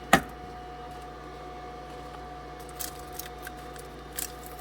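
A single sharp click just after the start, then a few light clicks and ticks about three and four seconds in, over a steady electrical hum: handling sounds of hands and tools at work.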